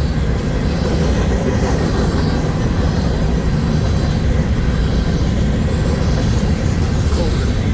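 Manifest freight train rolling past close by: a steady, loud rumble of freight cars' wheels on the rails.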